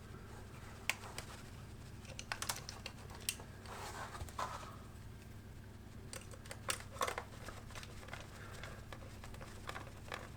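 Small, irregular clicks and taps of a tiny screwdriver and screws being worked into a plastic model locomotive body, with a few brief scrapes.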